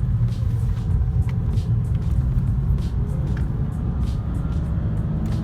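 A 2010 BMW 328i's inline-six engine and road noise as the car is driven: a steady low rumble.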